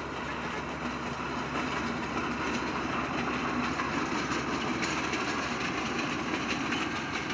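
A narrow-gauge passenger train passing, hauled by a diesel locomotive. The coaches' wheels click over the rail joints.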